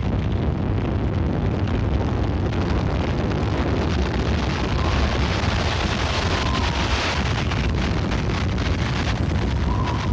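Tornado-force wind blowing hard and continuously past the microphone, a dense, loud rush with heavy low buffeting, and faint thin whistles in its second half.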